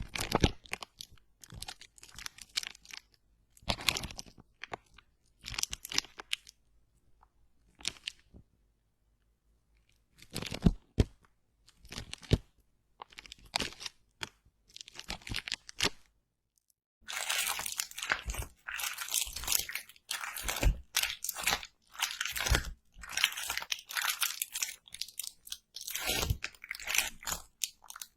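Close-up crisp crunching and crackling sounds. There are separate short bursts at first, then a brief dead silence about two-thirds of the way in, then a dense run of crackling.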